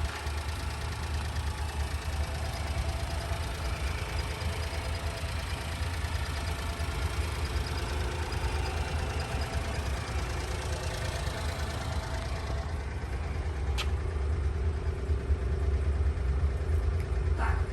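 Honda Acty kei truck engine idling steadily with a low rumble. A hiss over the top of it drops away about twelve seconds in.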